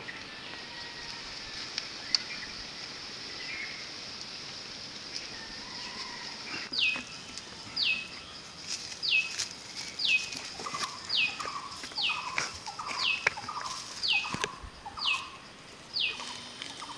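A bird calling over and over, each call a sharp note sliding downward, about once a second from about seven seconds in, over a steady high hiss and a few light clicks.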